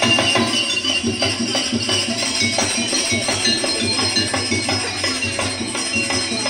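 Jaranan accompaniment music: a gamelan-style ensemble of drums and tuned gongs and metallophones playing a steady, busy rhythm, with jingling bells over it.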